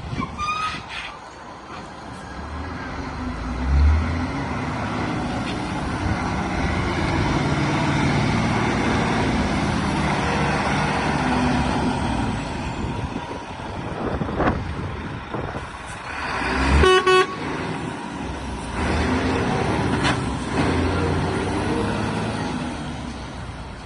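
DAF CF85 cement mixer truck's diesel engine running, with a rise in level about four seconds in. A vehicle horn toots briefly about seventeen seconds in.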